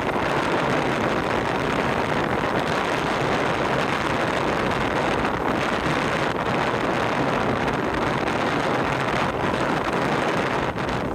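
Steady wind rushing over the microphone on the deck of a moving ferry, with the ferry's wash and running noise mixed in.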